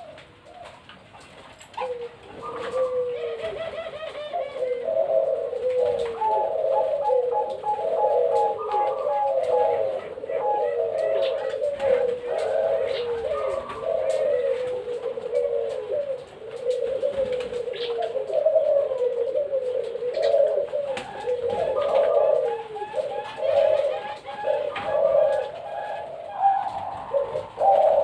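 Zebra doves (perkutut) cooing, a dense run of repeated, rhythmic coo phrases that overlap one another. The cooing starts about two seconds in.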